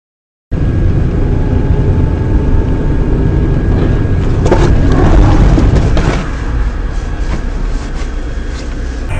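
Car road and engine noise as picked up by a dashcam mic, a loud low rumble that cuts in abruptly, with a few sharp knocks about four to six seconds in.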